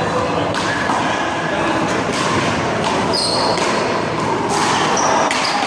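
Rubber handball being struck by hand and bouncing off the wall and court during a rally: several sharp slaps a second or so apart over steady background noise.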